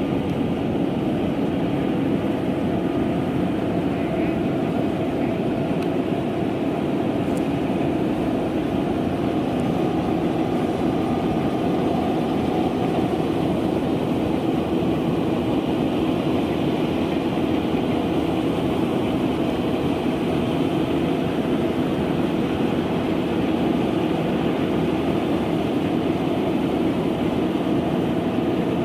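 Rice combine harvester running steadily, a continuous mechanical noise with no breaks.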